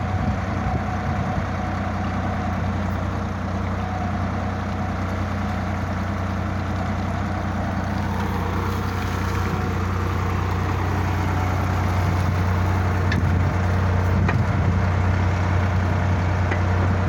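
Sonalika DI 47 tractor's diesel engine running steadily with a deep, even hum, getting a little louder in the last few seconds.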